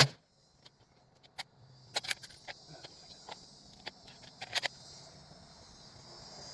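A single rifle shot at the very start, then after about a second a string of light metallic clicks and rattles, as of the rifle being handled. A steady high insect drone runs behind.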